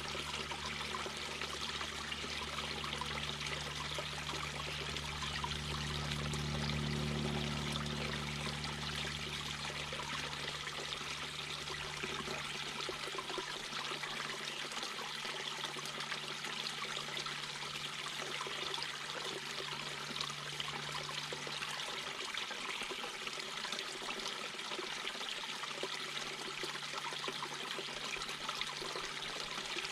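Mountain brook babbling and splashing over rocks in a steady rushing water sound. A low steady hum runs underneath and fades away about two-thirds of the way in.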